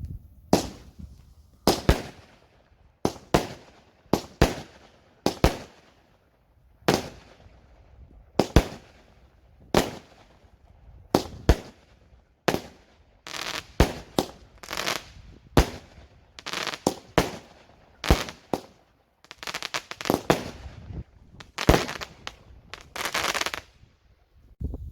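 Fireworks going off in a long run of sharp bangs, roughly one a second at irregular spacing, each trailing off. Some bangs come in quick clusters, and near the end one burst crackles for about a second.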